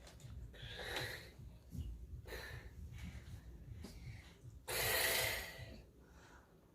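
A person breathing noisily or sniffing: a few short breathy puffs, then a longer, louder breath about five seconds in.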